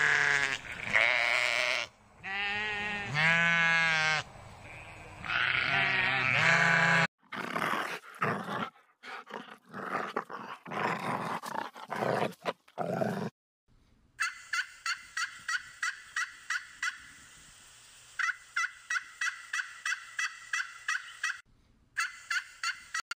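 Sheep bleating several times with a wavering pitch. About seven seconds in, water splashes irregularly for around six seconds. Then a fast, even run of short high chirps follows, about three a second, pausing briefly near the end.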